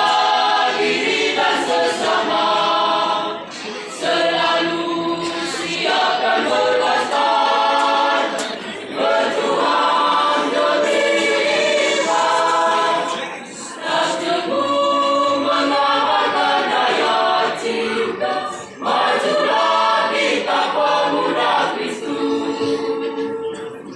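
Youth choir singing a hymn in several-part harmony, phrase by phrase with brief breaks between the phrases.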